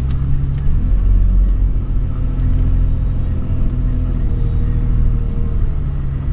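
A 2013 Toyota 4Runner's V6 engine runs steadily under load while driving over sand, with a heavy low rumble. The engine tone holds from about a second in until shortly before the end.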